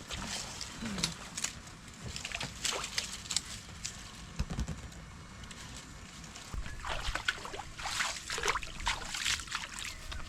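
Water sloshing and splashing in irregular bursts, in two busy spells with a quieter stretch between them.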